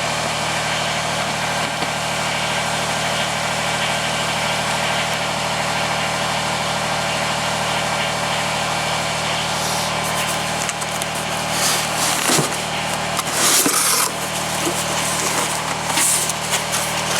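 The Kubota BX2380 compact tractor's three-cylinder diesel engine idles steadily as it warms up for an oil change. In the last several seconds there are a few short knocks and rustles close by.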